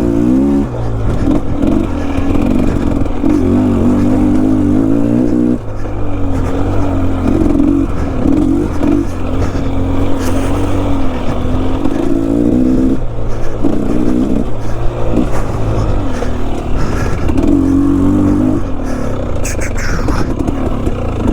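Enduro dirt bike engine revving up and dropping back over and over as the throttle is worked on a steep, technical trail, dipping briefly several times. A short scraping clatter shows near the end.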